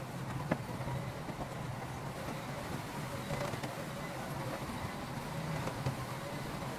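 Diesel engine of heavy earthmoving machinery running steadily with a low drone. A sharp clank comes about half a second in, and a lighter one near the end.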